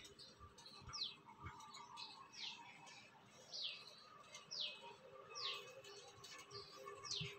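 A small bird chirping faintly in the background: short falling chirps repeated roughly once a second.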